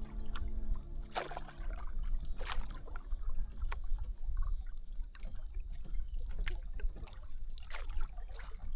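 Canoe paddle strokes in water, a dip and splash about every second and a quarter, over a steady low rumble.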